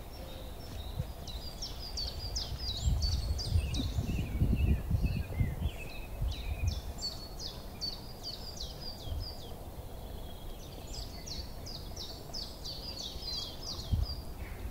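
A songbird singing three bouts, each a quick run of short repeated notes, over steady outdoor background noise. A low rumble about a third of the way in is the loudest sound.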